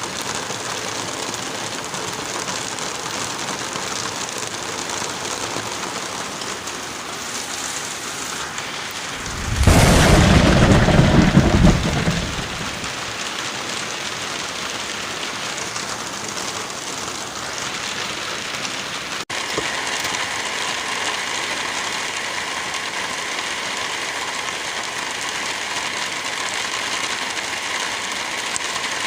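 Steady heavy rain with a loud clap of thunder about a third of the way in that rumbles for around three seconds. About two-thirds through the rain cuts out for an instant and resumes with a slightly different sound.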